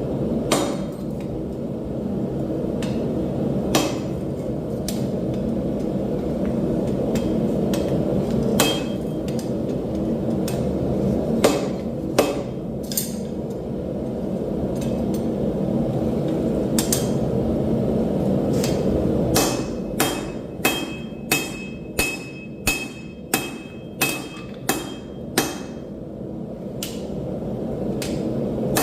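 Hammer blows on hot steel at an anvil: scattered strikes, then about two-thirds of the way in a steady run of about two blows a second, some with a short metallic ring. A steady low roar runs underneath.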